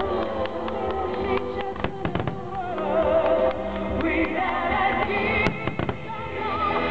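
Fireworks bursting and crackling, with many sharp bangs at irregular intervals, over music with a singing voice played over loudspeakers.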